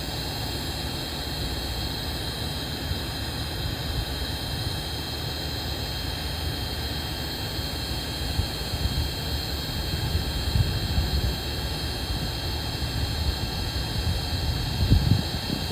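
Heat gun blowing steadily with a whine, shrinking heat-shrink butt connectors onto a wire. A few louder low puffs come near the end.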